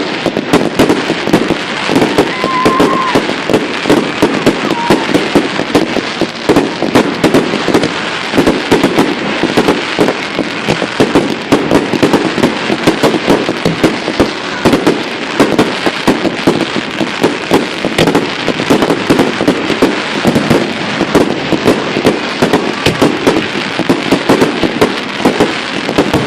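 Fireworks crackling and popping in a dense, continuous barrage of rapid sharp cracks, with no pause.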